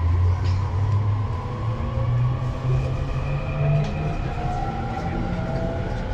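Electric commuter train pulling away from a station, heard from inside the car: the traction motors' whine climbs steadily in pitch as the train accelerates, over a low running rumble.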